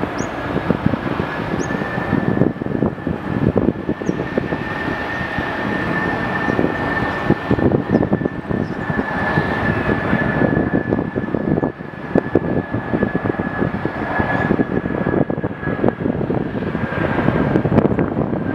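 Jet airliner engines running loud on the runway: a crackling rumble with a steady high whine.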